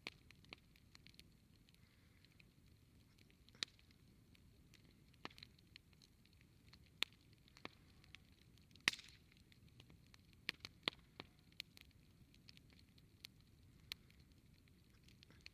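Wood campfire crackling: irregular sharp pops and snaps, scattered and uneven, with the loudest snap about nine seconds in, over a faint low background.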